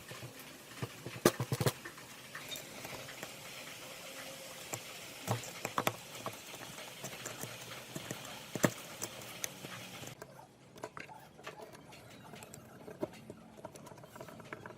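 Irregular light clicks and knocks of metal parts being handled during the iron cutter's restoration, a few sharper knocks among them, over a steady hiss.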